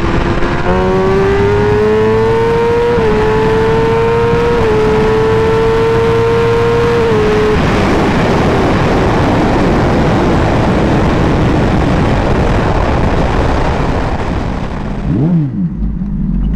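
Kawasaki ZX-10R inline-four at full throttle, the engine note climbing high and dipping briefly twice at quick upshifts. About seven and a half seconds in, the throttle closes and a steady rush of wind over the microphone takes over.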